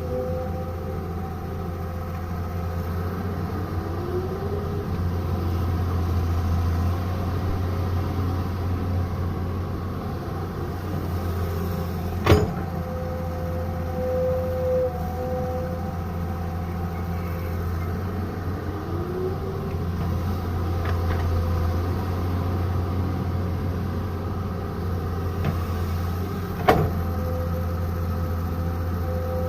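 Excavator's diesel engine running steadily with a hum and hydraulic whine, and a couple of short rising whines as it works. Two sharp knocks, about 12 and 27 seconds in, stand out above the engine.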